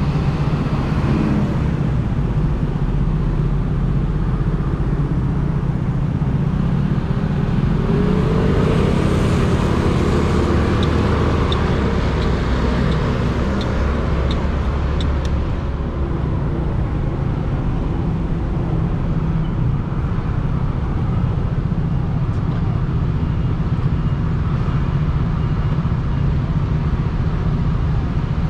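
Motorcycle riding at about 40–50 km/h, heard from a helmet-mounted GoPro: a steady low rumble of wind and road noise, damped by a foam sponge over the microphone. A short run of faint ticks, about two a second, comes through around the middle.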